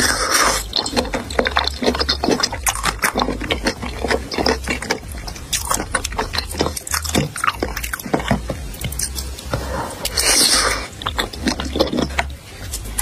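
Close-miked wet chewing and lip-smacking of chicken feet in sticky chili sauce: many quick, irregular clicky mouth sounds, with a longer hissing slurp about ten seconds in.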